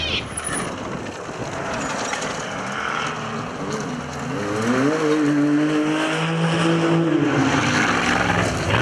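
Off-road rally vehicle driving fast on a dirt stage, tyre and gravel noise first, then its engine note rising about halfway through, holding, and dropping away near the end.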